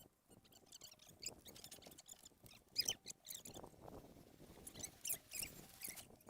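Small animals giving quick, high-pitched squeaks and chirps over and over, with faint rustling and one sharp click near the middle.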